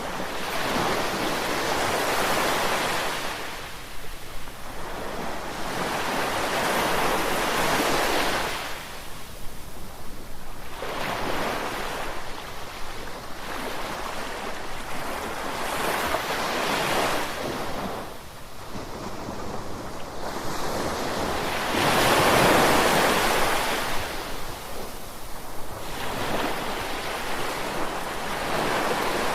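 Ocean surf, waves washing in and ebbing in about six swells of rushing noise a few seconds apart, the loudest about three quarters of the way through.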